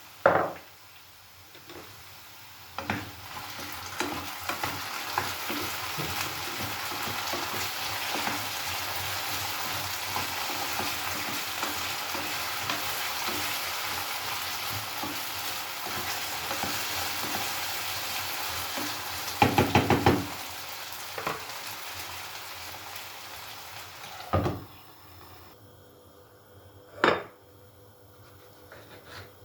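Food sizzling as it fries in a pan, with a utensil clicking and knocking against the pan. There is a quick run of taps about twenty seconds in; the sizzle stops about 24 seconds in, and a single sharp knock follows a few seconds later.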